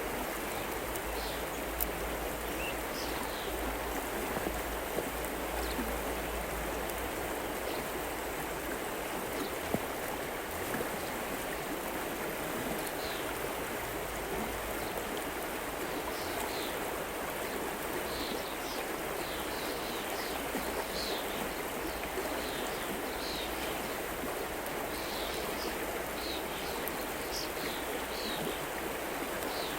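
River water flowing steadily. Short high chirps sound over it, more of them in the second half.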